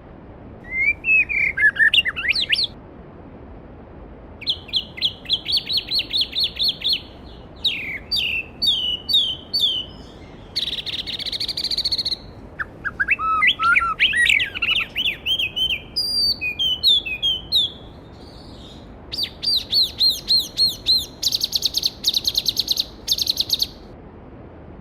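A songbird sings a run of varied, separate phrases: fast repeated notes, sweeping trills and a buzzy rattle, with short pauses between them. Under the song runs the steady rush of a mountain stream.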